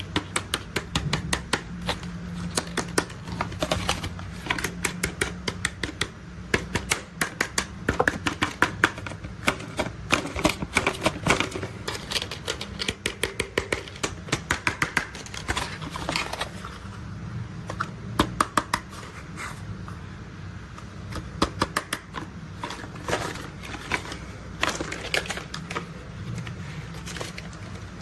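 Plastic toy construction vehicles clicking and ticking as they are handled, in irregular rapid runs of sharp clicks over a steady low rumble.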